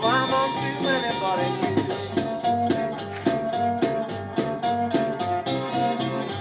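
Band music playing through a mixing desk: a drum kit keeping a steady beat under repeating bass notes and guitar, with a melody line sliding upward at the start.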